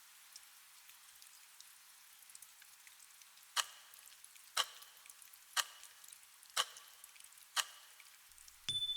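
Steady soft rain with five sharp ticks one second apart. Near the end a bell is struck once and rings on in one high, slowly fading tone, cueing the end of the focus session.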